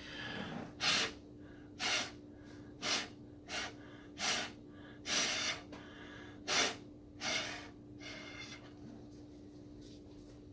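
Short puffs of breath blown through a drinking straw to push wet acrylic paint across a pour painting, about eight in a row roughly a second apart, stopping about eight seconds in. A steady low hum runs underneath.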